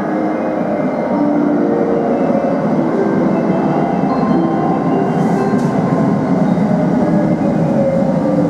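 JR West 681 series limited express electric train pulling in along a station platform. Its running noise holds steady, with a whine that falls in pitch near the end as it slows.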